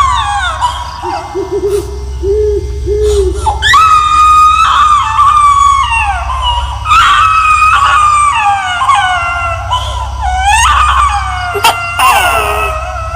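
Eerie horror sound effect: several long, high-pitched wailing cries that rise and fall in pitch, over a steady low droning hum.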